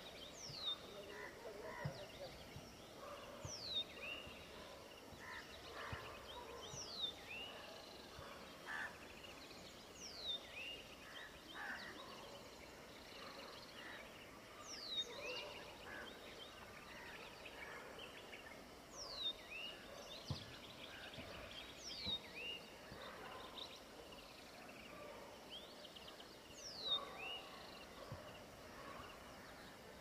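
Birds calling at dawn: one bird repeats a short high whistle that drops steeply in pitch, followed by a brief lower note, every few seconds, over fainter scattered chirps from other birds.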